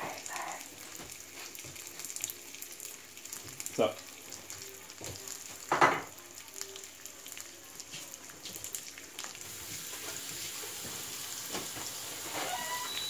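Sesame-crusted tuna steak sizzling and crackling as it sears in a hot nonstick frying pan. Two brief louder knocks come about two seconds apart near the middle, and the sizzle grows a little louder toward the end.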